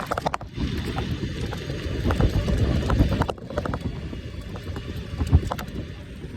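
Wind buffeting the microphone of a moving e-bike, with scattered clicks and knocks from the bike jolting over rough ground.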